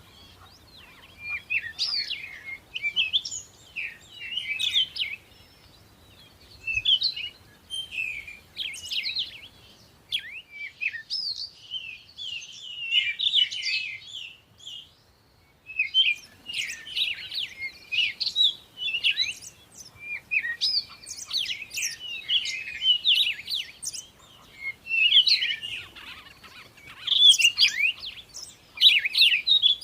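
Birds chirping and twittering in quick, high-pitched runs of notes, several calls overlapping, with a brief pause about halfway through.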